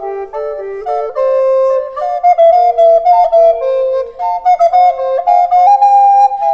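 Recorder playing a pop-ballad melody as a run of short, changing notes, with a second line of notes sounding alongside it.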